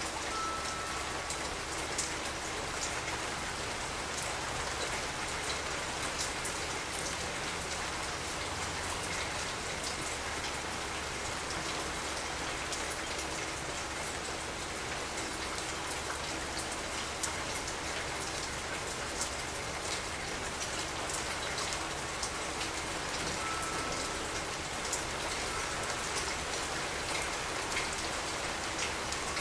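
Steady rain falling, with the sharper taps of single drops scattered through it.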